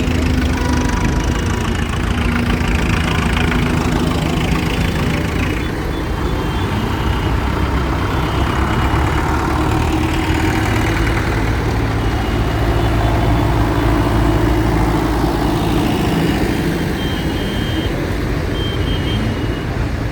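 Engines of tractors and lorries running and moving past, a steady low drone whose pitch shifts slowly as the vehicles go by. A few short, high, evenly repeated beeps come in about six seconds in and again near the end.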